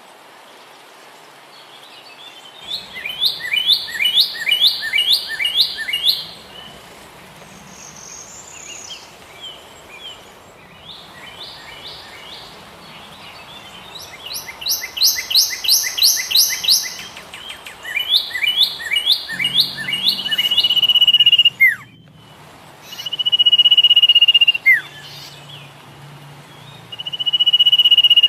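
Bird song: bursts of quick, sharp repeated notes in runs of about half a dozen, then, from about two-thirds of the way in, three long steady whistles, each ending in a quick falling note.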